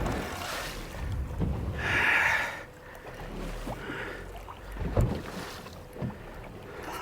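Water sloshing and splashing against a small boat's hull, with sharp knocks about five and six seconds in and wind on the microphone.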